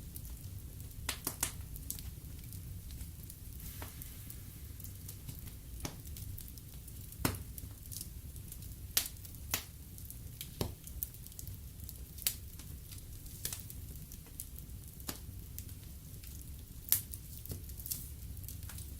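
Wood fire in a fireplace crackling, with irregular sharp pops every second or two over a low steady rumble of the flames.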